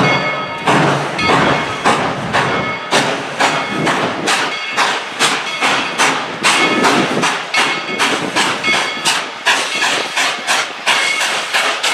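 Narrow-gauge steam locomotive No. 190, a 2-8-2, chuffing as it works a train, its exhaust beats quickening from about two to about four a second as it picks up speed.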